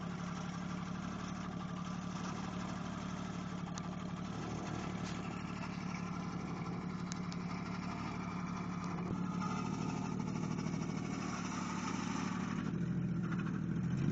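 A 4x4's engine idling steadily, its hum growing slightly louder from about nine seconds in.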